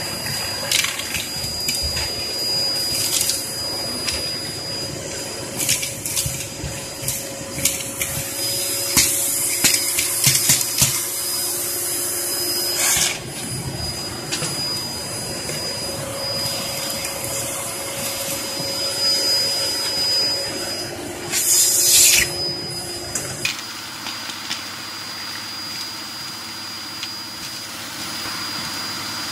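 Hoover Performer Pet HPT16 upright vacuum cleaner running with a steady high motor whine while it sucks up fireplace ash and cinders, with bursts of gritty clicks and rattles as debris is pulled through. About 23 seconds in the sound turns smoother and steadier.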